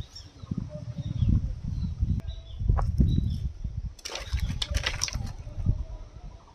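Wind buffeting the microphone in uneven low rumbling gusts, with a burst of rustling hiss about four seconds in and faint bird chirps.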